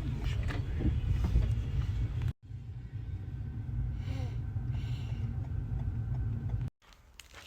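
Steady low rumble of a moving vehicle with scattered light knocks. It cuts out abruptly twice, about two seconds in and near the end, then drops to a quiet background.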